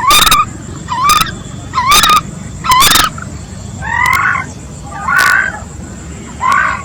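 Common coot calling: seven short, sharp calls about one a second, the last three pitched higher and a little softer.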